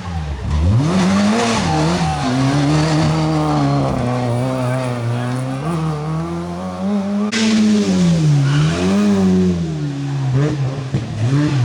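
Rally car engine at full throttle, its note dropping sharply near the start, then climbing and holding high, then falling and rising twice more near the end as it brakes and shifts gear. A sudden hiss joins about seven seconds in.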